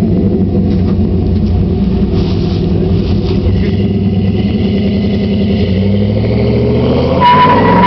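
Chevrolet Silverado SS's 5.3-litre V8 running steadily at low revs through long-tube headers, an uncatted 3-inch Y-pipe and a Flowmaster Super 44 muffler, then revving up sharply near the end as a high steady squeal starts.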